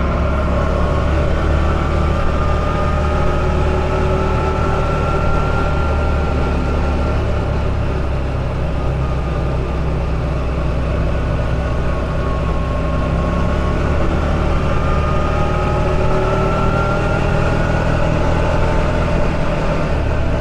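Buggy engine running as it is driven along the road, heard from on board, its pitch slowly rising and falling with engine speed.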